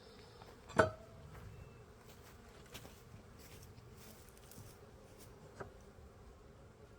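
Honeybee colony buzzing steadily around the open hive, with a sharp knock about a second in and a few faint clicks later.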